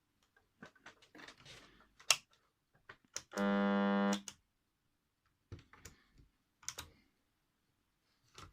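Switch clicks on an old Sony flip clock radio, then a steady buzz from its alarm buzzer through the speaker for just under a second, the loudest sound, followed by more clicks.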